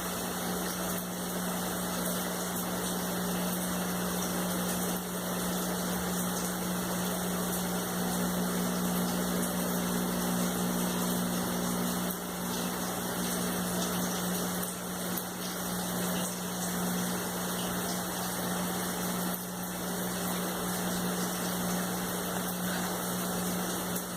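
Shower running: a steady spray of water, with a low steady hum underneath.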